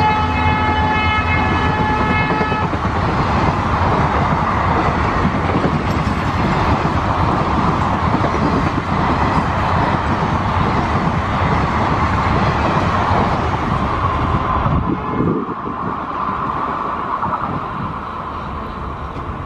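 A passenger train hauled by a WDP4D diesel locomotive runs past at speed, its coaches' wheels rumbling and clattering on the rails. A multi-tone train horn sounds over it for about the first three seconds. The rumble drops off about fifteen seconds in and carries on more quietly as the train moves away.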